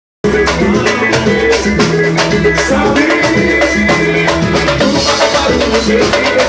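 Live band music: drums and shaker-like percussion keep a steady beat over sustained low notes, starting abruptly just after the beginning.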